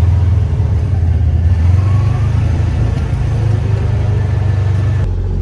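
Farm tractor engine running steadily with a low drone as the tractor drives along.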